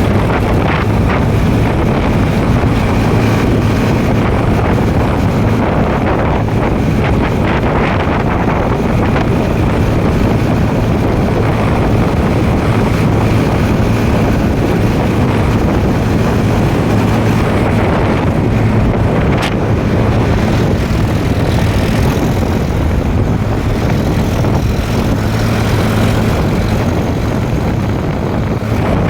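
Tractor engine running steadily under way, a constant low drone, with wind buffeting the microphone.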